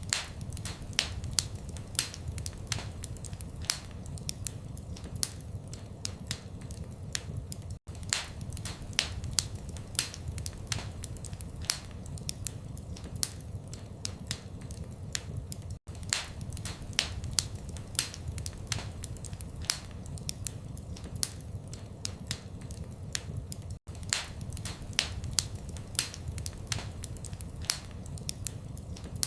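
Fire crackling in a fireplace: a steady low rumble of flames with frequent sharp pops and snaps, several a second, some louder than others. The sound cuts out very briefly about every eight seconds.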